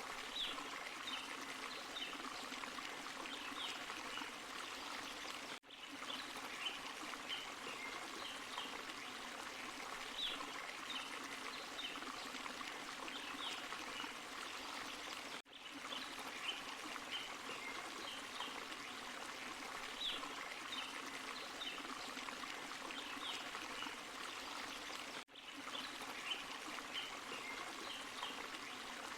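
Small forest waterfall and stream running over rocks, a steady rush with trickling. It cuts out for an instant three times, about every ten seconds, where a short recording repeats as a loop.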